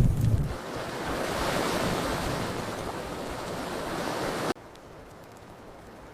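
Steady rushing hiss of an open fire, swelling and easing. It cuts off abruptly about four and a half seconds in, leaving a fainter hiss.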